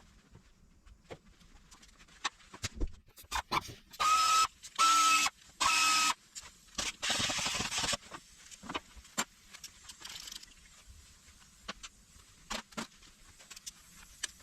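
A power tool, such as an electric or air ratchet, spins three times in short bursts with a steady whine, followed by a longer, noisier burst. Around these are scattered clicks and knocks of tools and engine parts being handled during the engine teardown.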